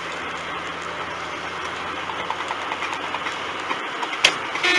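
Steady car engine and road noise, with a sharp click near the end followed by a car horn starting to sound.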